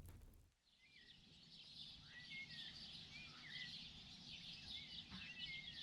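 Faint birdsong: a dense chatter of many small birds chirping at once, with a few short sliding whistled calls over it.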